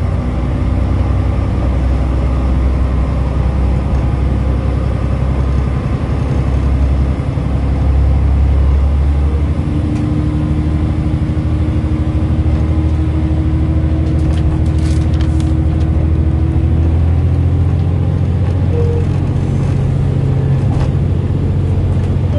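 Diesel railcar under way, heard from inside the passenger cabin: a steady low engine drone and running rumble, with a humming tone that comes in about ten seconds in and fades a few seconds later.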